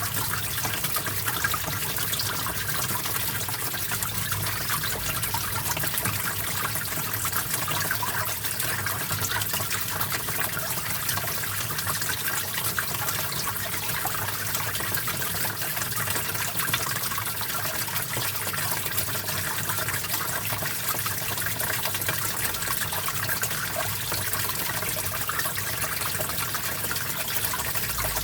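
Small stream of water running and trickling, a steady rushing babble.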